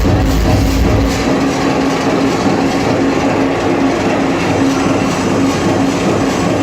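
Loud live hard dance music over a club sound system. About a second in, the kick drum drops out into a breakdown: a dense, noisy synth wash over a steady held tone.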